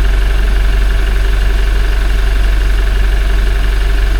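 Toyota 1GD-FTV four-cylinder turbo-diesel idling steadily while warming up, with a timing-chain rattle that can be heard a little even now.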